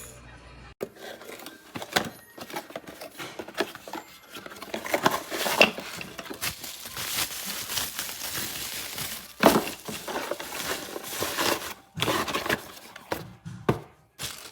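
Irregular crinkling, rustling and clicking handling noise, like packaging or objects being handled, with several sharper knocks.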